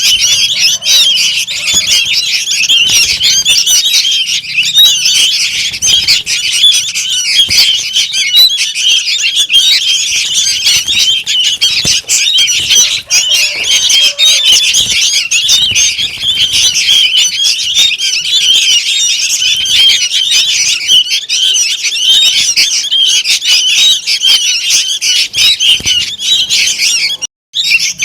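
Young sooty-headed bulbuls (kutilang) calling noisily without pause, a dense chatter of short, high, squeaky calls; it cuts out for a moment near the end.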